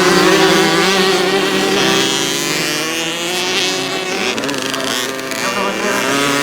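Several small kids' motocross bikes running together, their engines held at different steady pitches, with some shifts as throttles change.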